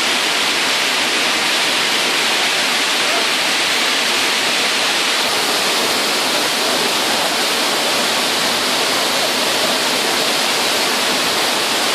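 Waterfall pouring steadily into its pool: a loud, even rush of falling water.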